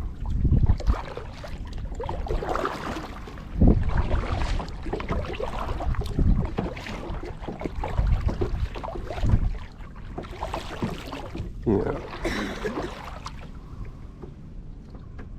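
Kayak paddling: paddle blades dipping into and splashing water, with irregular low thumps.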